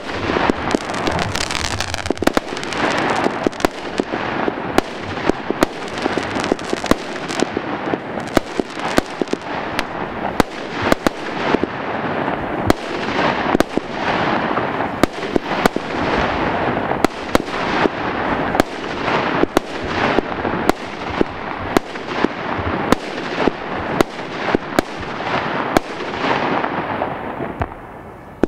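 Fireworks going off: a dense run of sharp bangs over a constant hiss and crackle from rising and bursting shells, dying down near the end.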